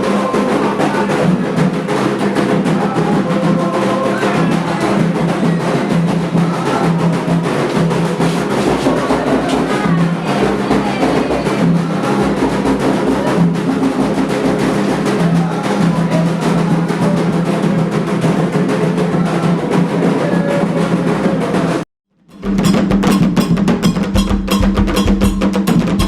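Candomblé ceremonial drumming on atabaque hand drums with other percussion, playing a steady, continuous rhythm. The sound cuts out abruptly for a moment about 22 seconds in, then the drumming resumes.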